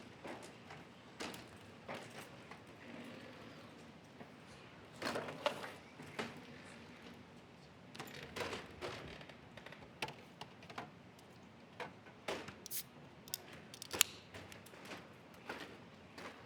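Irregular clunks, knocks and rattles from a humanoid robot handling a refrigerator, with louder clusters about five, eight and fourteen seconds in.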